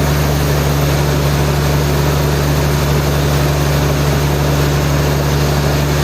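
Sawmill machinery running steadily: a constant low drone with a hiss of noise above it, unchanging throughout.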